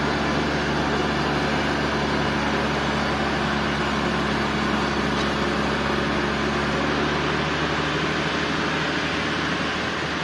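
Sawmill machinery running with a steady drone and a low engine-like hum.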